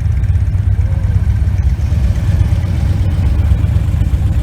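Victory Vision motorcycle's V-twin engine running under way at a steady speed, a steady low rumble.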